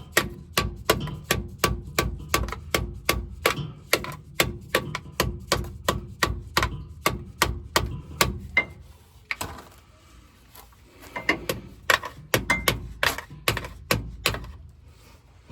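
Rapid hammer blows on metal, about four a second, working at a rear differential cover to break its stuck gasket seal. The blows stop briefly about two thirds of the way in, then resume in a shorter, uneven run.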